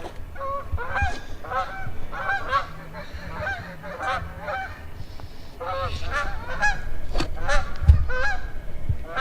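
Canada geese honking: many short, repeated honks from several birds overlapping, with a few dull low thumps near the end.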